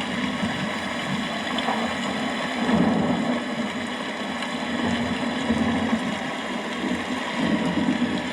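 Steady rain falling, with a low rumble that swells about three seconds in and again near the end.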